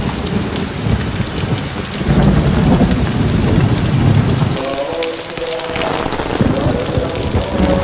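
Heavy rain pouring off a roof edge in streams and drips, with a deep rumble under it in the first half. About halfway through the sound changes abruptly to a lighter, steady downpour.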